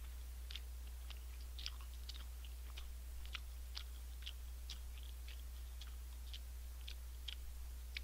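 A person chewing a mouthful of shrimp-and-beef burger close to a desk microphone: soft, irregular crunching clicks, roughly two a second. A steady low electrical hum runs underneath.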